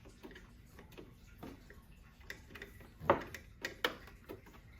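Irregular light clicks and ticks of a screwdriver working a screw out of a printer's plastic housing, with a louder knock about three seconds in.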